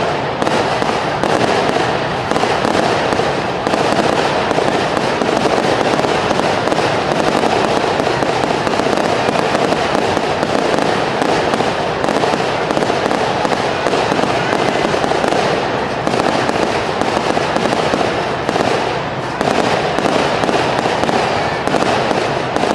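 Fireworks going off in a dense, continuous barrage, many bangs and crackles running together without a break.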